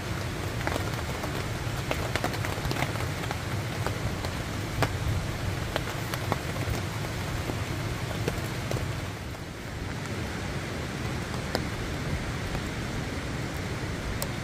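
Steady spring rain falling on a camping tarp overhead: a constant hiss with scattered drops tapping sharply on the fabric, briefly softer about nine seconds in.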